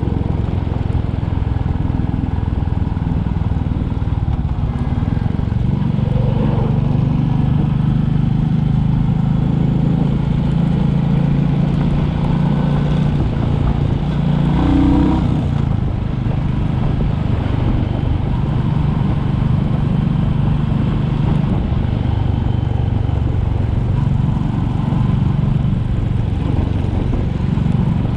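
Royal Enfield Classic 350's single-cylinder engine running steadily as the motorcycle is ridden, with a brief change in engine note about halfway through.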